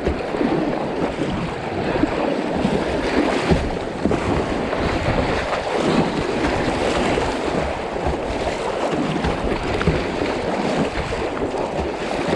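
Fast river water rushing and churning steadily around a kayak on a river in high flood, with wind buffeting the microphone.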